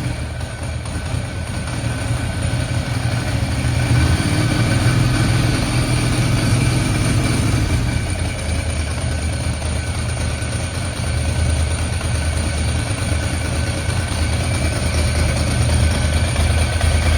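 1995 Ducati 900 SS air-cooled L-twin engine on Laser exhausts running at a steady idle from a cold start, with a deep, even exhaust note that swells slightly now and then.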